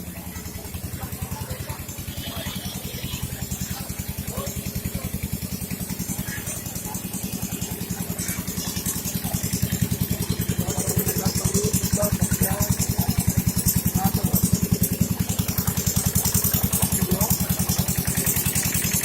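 An engine running steadily with a fast, even beat, getting louder over the first half and then holding, with a high hiss over it.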